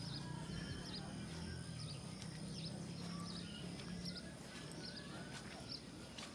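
Small birds chirping: short, high calls repeating every half second or so, over a low rumble that weakens about four seconds in.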